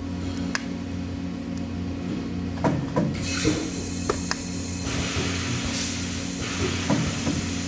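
Steady electrical hum of workshop machinery, with scattered metallic clicks and knocks and a hiss that comes in about three seconds in and lasts a few seconds.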